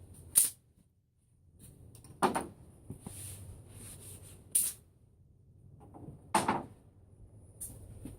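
Wooden knocks and clunks as short pieces of board offcut are handled and set down for use as spacers, a few sharp knocks a couple of seconds apart.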